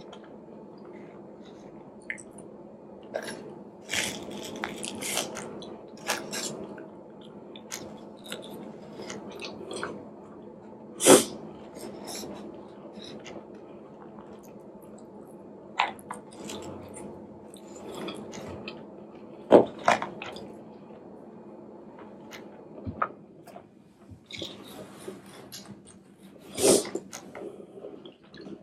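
Close-miked eating: chewing and wet mouth sounds, with a plastic spoon scraping and clicking in a styrofoam takeout container of jollof rice. A few sharper smacks or clicks stand out near the middle, about two-thirds in and near the end, over a faint steady hum.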